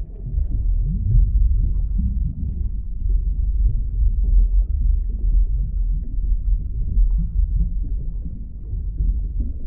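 Deep underwater ambience: a continuous low rumble with faint, short pitch glides rising and falling over it.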